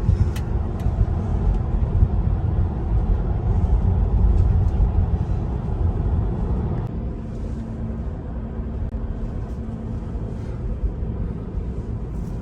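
Tyre and wind noise inside the cabin of a Tesla electric car travelling at about 85 mph, a steady low rumble that eases a little about seven seconds in.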